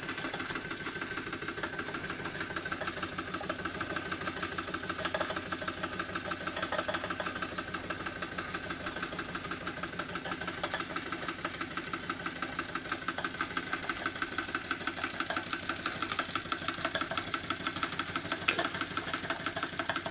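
Small model engine running at a fast, even beat while driving a Baker fan by belt, working under the fan's load.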